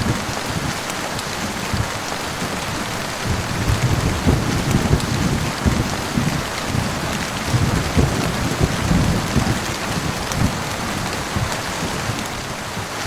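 Heavy rain falling steadily on surfaces, with low rolling thunder rumbling through the middle.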